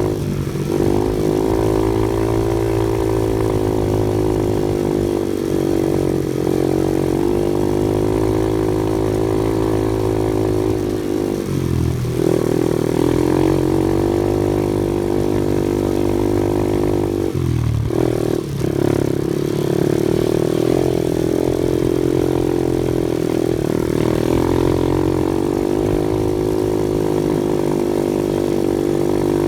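Off-road vehicle engine running under changing throttle, its pitch rising and falling. The note briefly drops off about 12 and 18 seconds in, then comes back up.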